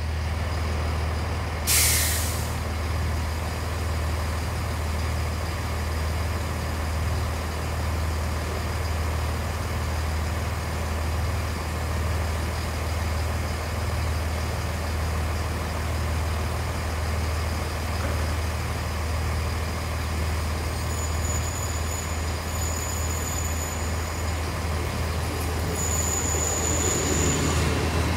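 Steady low hum of a diesel-electric train at the platform, with a short sharp hiss of air about two seconds in. Near the end a Great Western Railway Intercity Express Train draws in, its rumble growing and a thin high squeal coming and going.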